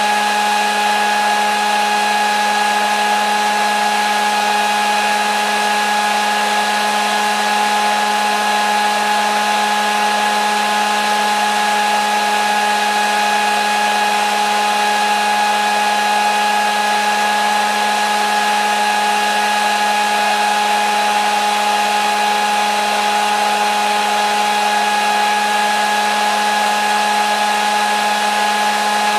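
Hair dryer running continuously at a constant setting: an even rush of blown air over a steady motor whine that holds one pitch throughout.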